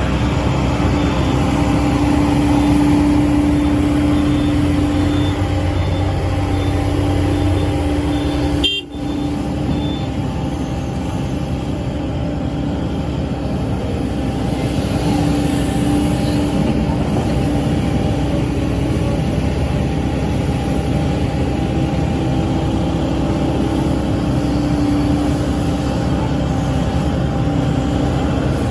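SANY SY135C excavator running steadily under work, a continuous engine noise with a steady held tone that swells and fades at times. The sound drops out briefly about nine seconds in.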